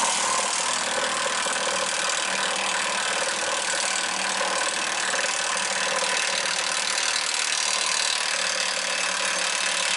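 A machine's motor running steadily and loudly, starting abruptly and cutting off abruptly about ten seconds later, with a steady hum under a hiss-like rush.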